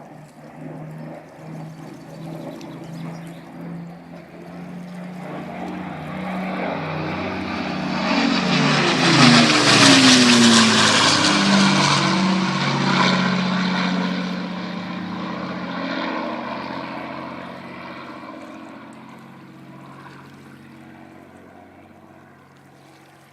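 Piston-engined propeller aircraft flying past overhead: the engine note builds for about ten seconds, drops in pitch as it passes, then fades away.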